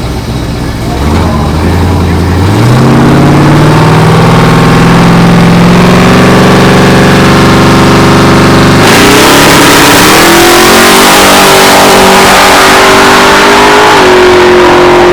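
Drag car's engine at full throttle, accelerating hard down the strip. Its pitch climbs steadily for several seconds, then about nine seconds in the sound turns suddenly harsher and louder, settling on a higher steady note.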